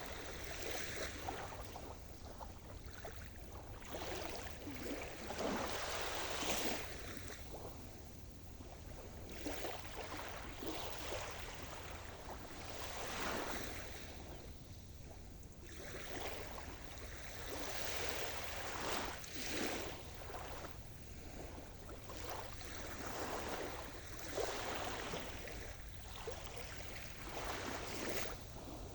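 Sea surf washing onto the shore, the wash swelling and falling away every few seconds over a steady low rumble.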